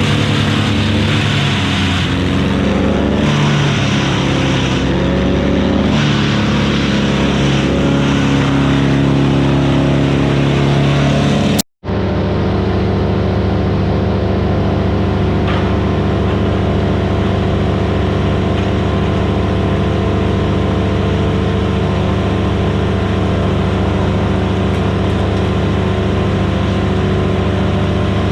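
Gas-engine Vermeer BC1000XL wood chipper running hard, its engine pitch wavering through the first part as it chips wood. The sound cuts out for an instant about twelve seconds in. The engine then runs on at a steady pitch.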